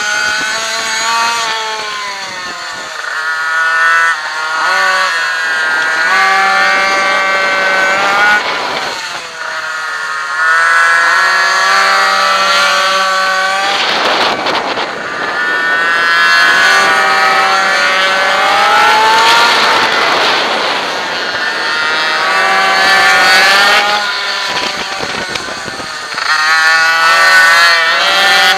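Racing minimoto engine heard from on board the bike, revving high and rising in pitch along each straight, then falling away into the corners, over and over through a lap.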